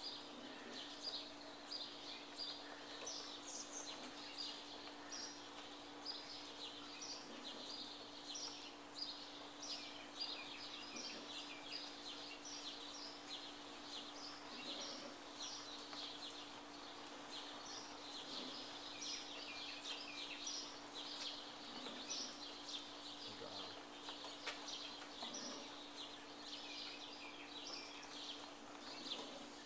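Small birds chirping again and again, with a steady low hum underneath.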